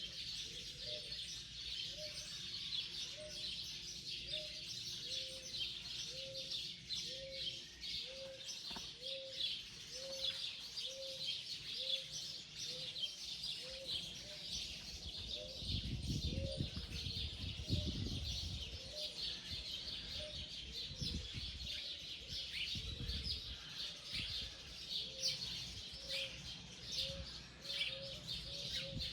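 Morning chorus of many small birds chirping and calling together, with a low note repeated about once a second running through it. A low rumble rises for a few seconds past the middle.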